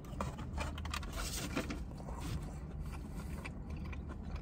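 Close-up mouth sounds of a person chewing breaded chicken nuggets, crisp crunching in the first couple of seconds that gives way to softer chewing.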